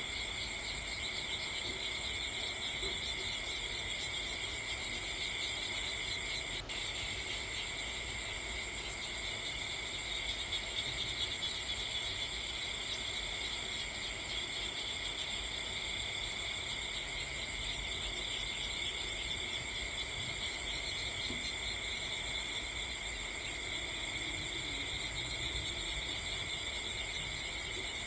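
A steady chorus of crickets chirring, with several high pulsing trills overlapping throughout. There is a low background hiss underneath and a single sharp click about seven seconds in.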